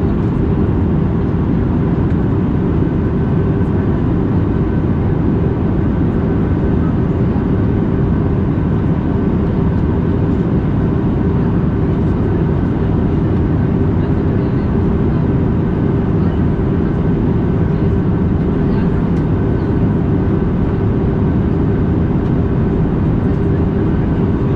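Steady in-flight drone of an Airbus A320neo's Pratt & Whitney PW1100G geared-turbofan engines and airflow, heard from inside the cabin, with a few faint steady whines above the low rumble.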